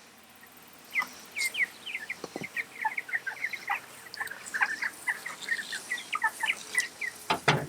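Young Cornish Cross broiler chicks peeping: many short, high, falling peeps from several birds in quick succession, starting about a second in.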